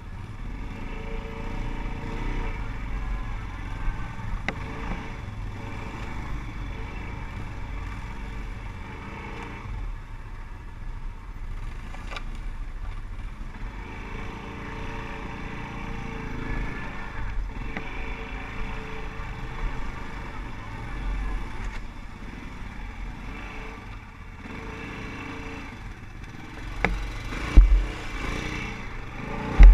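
ATV engine running with the revs rising and falling as it rides over rough ground, with a heavy low rumble throughout. Two sharp loud knocks come near the end.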